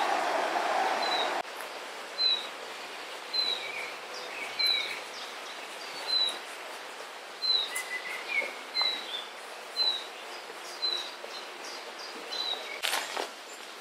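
A songbird repeating a short, high chirp about once or twice a second. At the start there is a louder steady rush of noise that cuts off about a second and a half in, and a few rustling steps come near the end.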